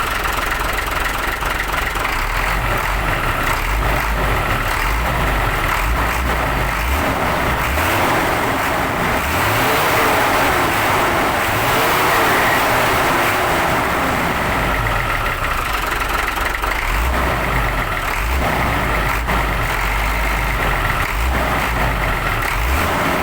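Hino 500 truck's diesel engine running steadily, a little louder for a few seconds about ten seconds in.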